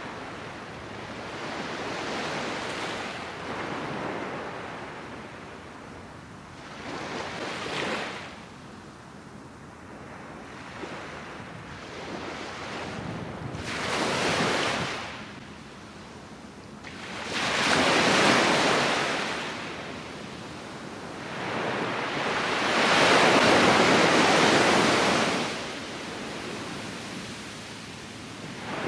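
Ocean surf: waves breaking and washing ashore one after another, each swelling and then falling away. The biggest breaks come in the second half.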